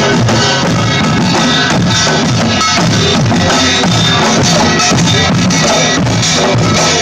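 Loud live band music with a drum kit keeping a busy, steady beat of bass drum and snare.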